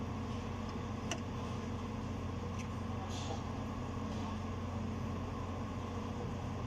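Machinery running steadily with a low, even hum, with a single sharp click about a second in.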